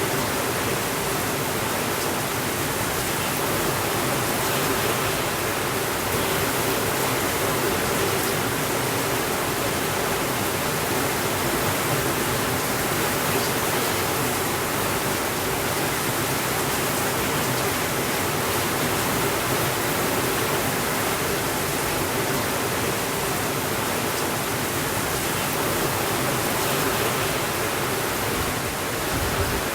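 Steady rain falling on a window, an even rushing hiss with no thunder.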